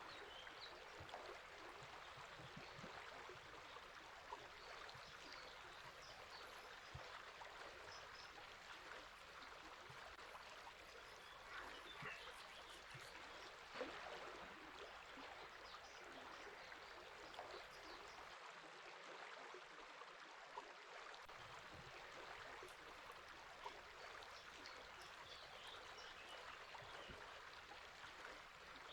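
Faint, steady rush of river water flowing, with occasional faint, brief bird chirps.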